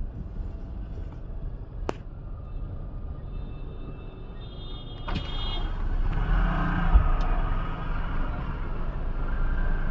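Road traffic: vehicles running and passing, with a steady low rumble that grows louder about halfway through.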